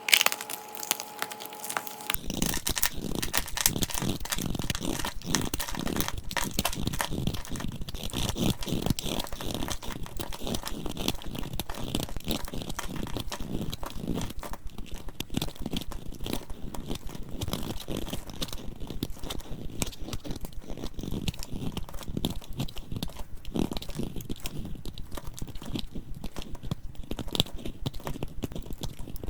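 Dried soap being crushed, crunching and crumbling: a dense, rapid crackle that sets in about two seconds in and keeps on without pause.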